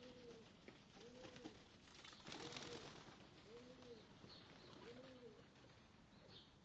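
Racing pigeons cooing faintly, a soft arched coo repeated about once a second, six times in a row. A brief rustle about two and a half seconds in.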